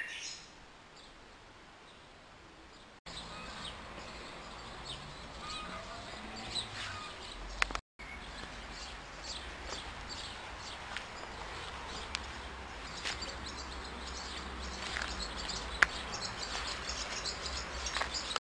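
Outdoor ambience: small birds chirping in many short calls over a low, steady rumble, with the sound cutting abruptly about three and eight seconds in.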